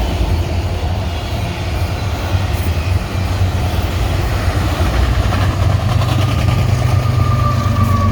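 Norfolk Southern autorack freight train rolling past: a steady low rumble of wheels on the rails, with a faint high tone coming in over the last few seconds.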